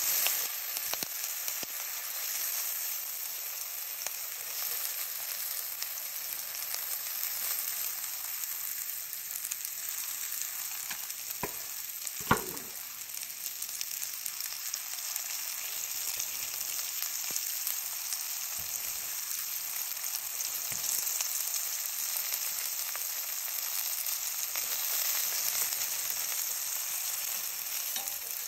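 Porcini slices sizzling steadily in butter in a cast-iron skillet. One sharp tap comes about twelve seconds in.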